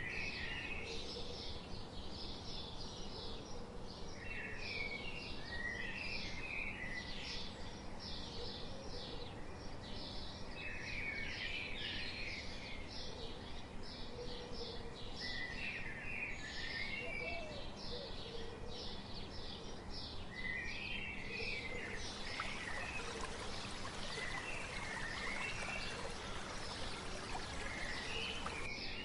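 Wild bird song: one bird repeats a short warbled phrase about every five seconds over dense, rapid high chirping, with a steady background hiss beneath.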